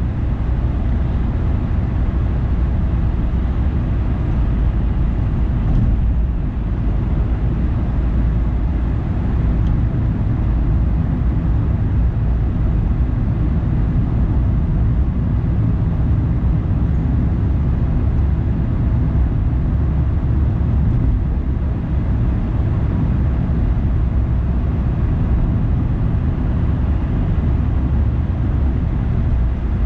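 A car driving, with steady road and engine noise, a continuous low rumble with no break.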